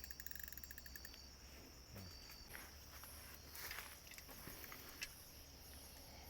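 Crickets and other insects chirping faintly at night, a steady high trill with short repeated chirps over it. A brief rustle comes about three and a half seconds in, and a single sharp click about five seconds in.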